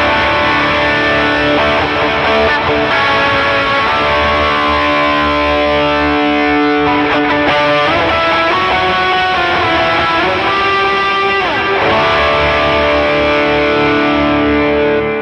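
Overdriven electric guitar played through a Line 6 digital modeler preset, with delay and reverb effects feeding dual amp models. Sustained, overlapping chords and notes, with a few bent notes gliding in pitch past the middle.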